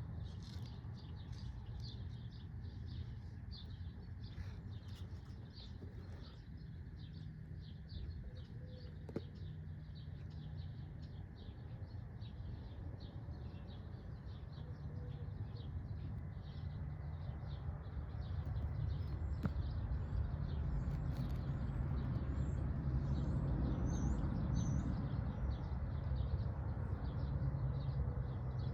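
Birds chirping outdoors: short high chirps repeat about two to three times a second, with a few quick rising whistled calls partway through. Under them a low rumble grows louder in the second half.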